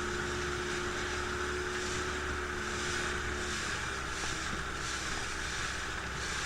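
A motorboat's engine running steadily, with a low hum that drops away about three and a half seconds in.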